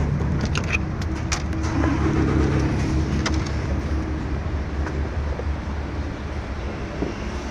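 1969 Land Rover Santana running on the road: a steady low engine and road drone, with a few short clicks in the first few seconds.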